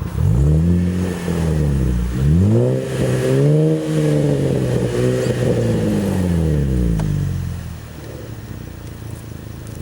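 2012 Chevrolet Camaro LS's V6 exhaust, through MRT V2 axle-back mufflers, under a hard acceleration run: the note climbs, drops at a gear change about two seconds in, climbs again, then falls away and fades near the end.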